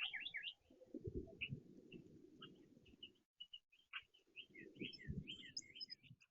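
Small songbirds chirping and twittering in quick runs of short falling notes, over low, irregular rumbling and thumping noise.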